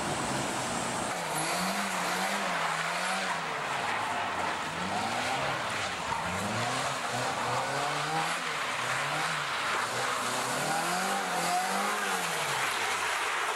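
Car engine revving up and falling back about five times while the rear tires, locked together by a welded differential, squeal steadily through the slides of a drift.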